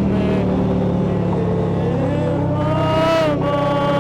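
Harley-Davidson V-twin motorcycle engine running under way, with a steady low drone; its pitch climbs from about two seconds in as it accelerates, then drops suddenly a little after three seconds.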